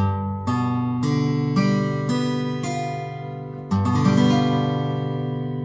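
Acoustic guitar playing a G7 chord: six strings are plucked one at a time, about half a second apart. Then the whole chord is strummed and left to ring out, fading slowly. Each note is sounded cleanly, to check that the chord is held without buzzing.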